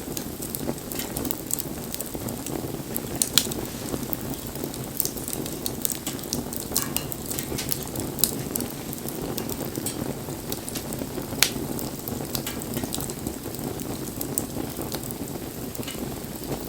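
Wood fire burning: a steady low rumble of flames with frequent sharp crackles and pops from the burning wood. The loudest pops come at about three seconds in and again at about eleven seconds in.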